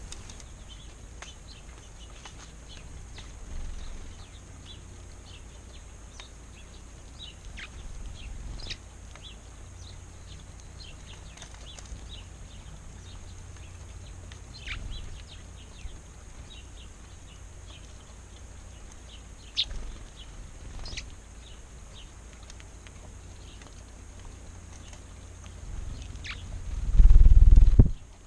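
Wild birds chirping now and then, with short calls that fall in pitch, over a steady low rumble of wind on the microphone. A much louder low rumble comes near the end.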